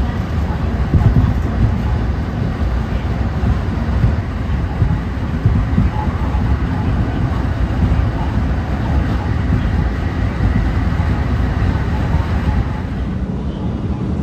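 Steady rumble of a Japanese local train running at speed, heard from inside the passenger carriage.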